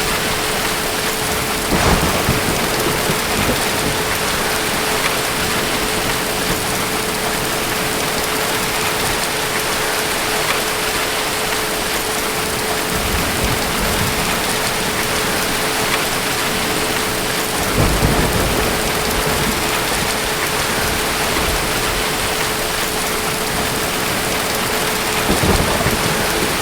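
Steady heavy rain with low rolls of distant thunder three times: a couple of seconds in, past the middle, and near the end.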